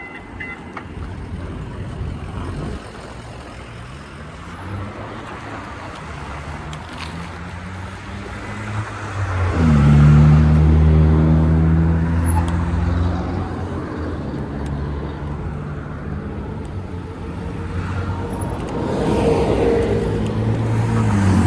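Road traffic heard from a moving bike, with steady wind rush on the microphone. About ten seconds in, a motor vehicle's engine note rises and then holds loudly as it passes or pulls away. Another engine note climbs near the end.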